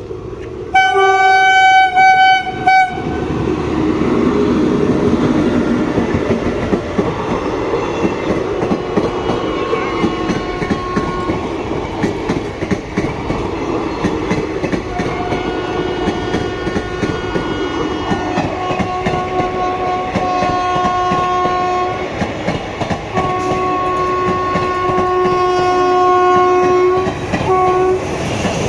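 Indian Railways electric locomotive horn sounds a loud blast about a second in, broken briefly partway through. Then a passing train's wheels clatter over the rail joints, with a run of quieter, long horn blasts through the second half.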